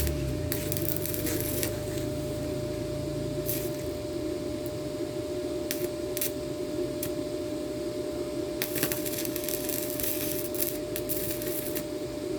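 Arc welding: the arc crackles and sizzles in irregular bursts of a second or two, over a steady hum with a faint tone.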